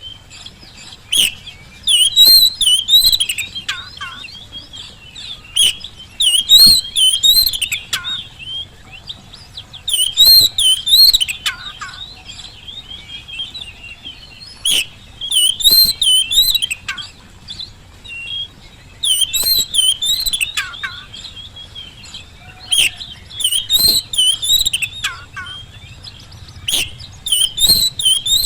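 Oriental magpie-robin (kacer) singing a loud, varied song in repeated phrases of about a second each, with short pauses between them.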